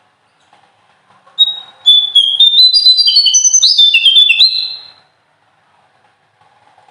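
Small songbird singing one rapid phrase of short, clear, high whistled notes that step up and down in pitch, run together into a rolling trill. This is the piercing 'nembak ngerol' style of song. It starts over a second in and lasts about three and a half seconds.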